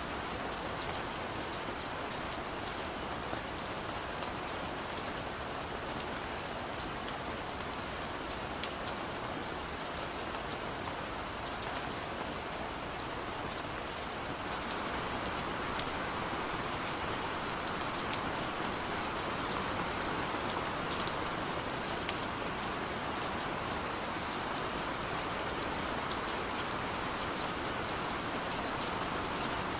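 Steady rain falling, with a dense hiss and many small drop ticks; it swells slightly about halfway through.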